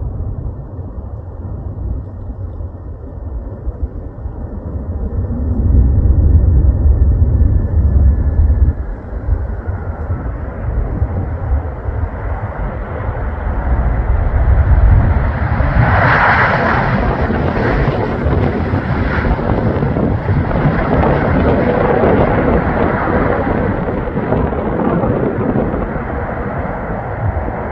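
Airbus A340-300's four CFM56 jet engines running during a landing, a continuous rumble with a faint falling whine early on. About sixteen seconds in, a louder, brighter rush of engine noise comes in and holds.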